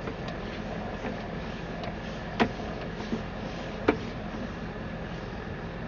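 Steady hum of sewer camera inspection equipment running, with a constant high whine. Two sharp clicks or knocks come about a second and a half apart, near the middle, as the camera is pushed through the drain line.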